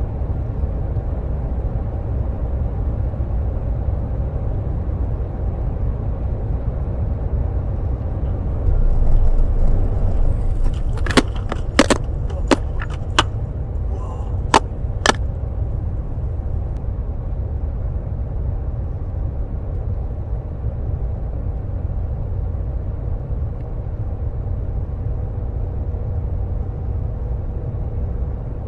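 A steady low rumble of earthquake shaking, with six sharp knocks or cracks between about 11 and 15 seconds in, as loose objects bang.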